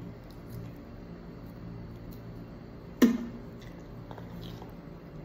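Close-up chewing of a cooked shrimp: small wet clicks and squishes over a low steady hum. About three seconds in comes a single sharp, loud knock.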